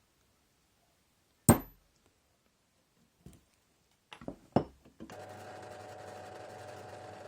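Workshop handling sounds: a single sharp knock with a brief high ring, then a few lighter clicks and taps. About five seconds in, a power tool's electric motor starts and runs steadily with a constant hum.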